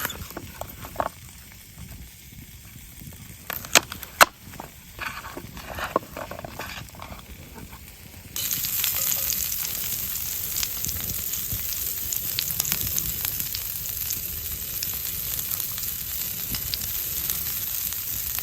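A few sharp clicks and knocks, then meat sizzling over an open wood fire: a steady loud hiss that starts suddenly about eight seconds in.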